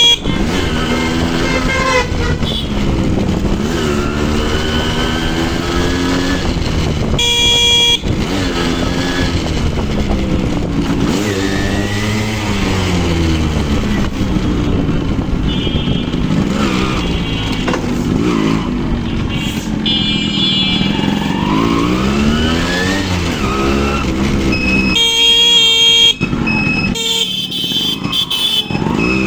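Two-stroke Yamaha RX100 motorcycle engine being ridden hard, its pitch rising and falling again and again as the throttle is opened and closed through the gears. Vehicle horns sound briefly about seven seconds in and a couple of times near the end.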